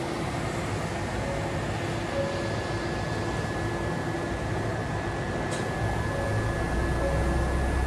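Ohmi Railway electric train standing at the platform, its onboard equipment running with a steady fan-like hum and a thin high whine. A deeper rumble builds up near the end.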